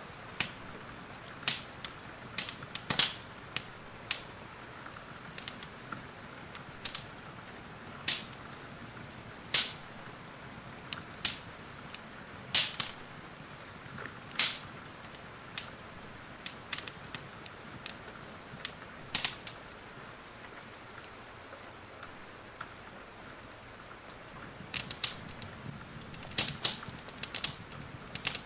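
Wood fire in a fireplace crackling, with sharp pops at irregular intervals, over a steady hiss of rain.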